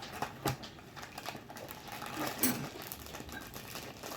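Faint, scattered light clicks and taps, with a small cluster about two and a half seconds in.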